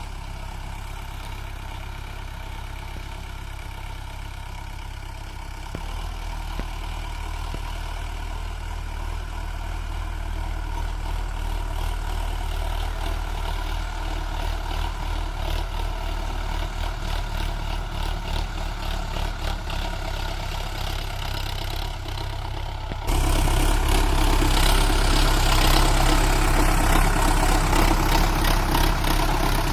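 Sonalika 750 tractor engine running steadily while pulling a cultivator through the soil. It gets louder in a step about six seconds in, and much louder and rougher suddenly about three-quarters of the way through.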